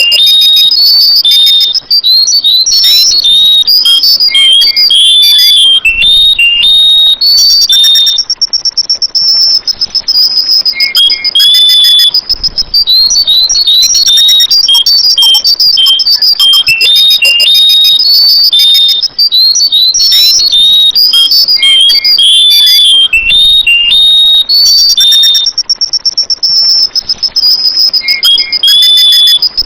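Sooty-headed bulbul (kutilang) singing loudly: bursts of quick chirping, whistled notes alternate with long, even high trills lasting a few seconds, the pattern repeating.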